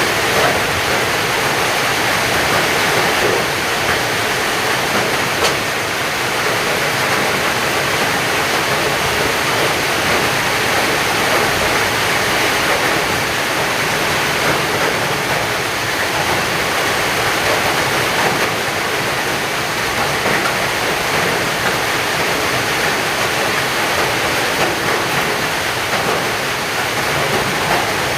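Heavy rain falling steadily, a loud, even downpour.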